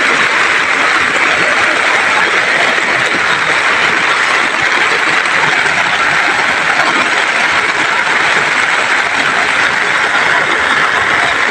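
Heavy rain falling, a loud steady hiss that cuts off abruptly at the end.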